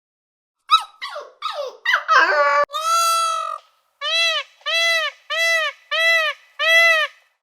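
High-pitched animal calls: several quick squeaks falling in pitch, then a longer call, then six short arching calls spaced about two-thirds of a second apart.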